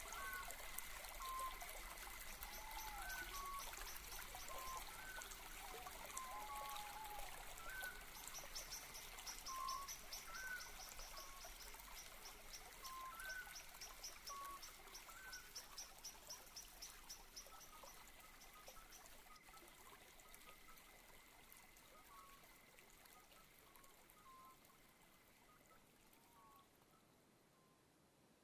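Rainwater trickling steadily, with a bird calling short repeated notes about once a second and a fast high trill for several seconds in the middle. The whole fades out gradually toward the end.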